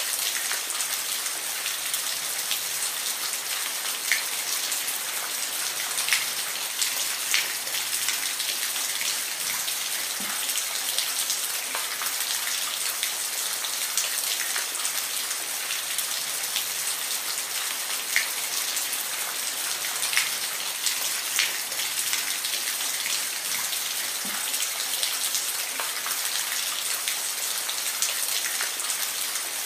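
Steady rain falling, a continuous hiss with individual drops ticking sharply here and there on a hard surface.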